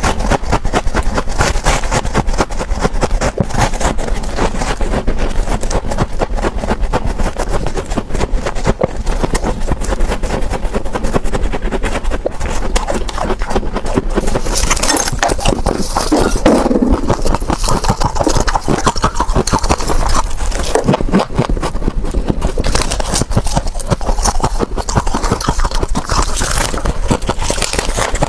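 Freezer frost ice being scraped and bitten, a dense, continuous run of crisp crunches and crackles.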